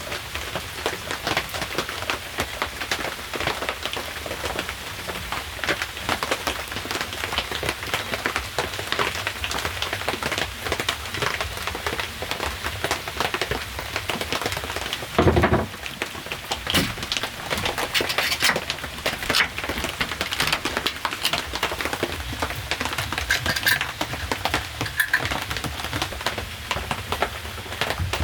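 Steady rain pattering on surfaces as a dense, even patter of drops, with one heavy thump about halfway through.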